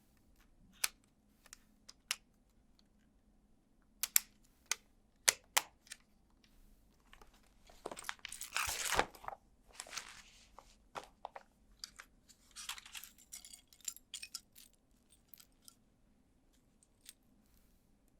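Plastic LEGO Technic parts being handled and snapped together: a handful of sharp clicks, then a few seconds of rustling and crunching as parts are sorted or pressed in, then a few more scattered clicks.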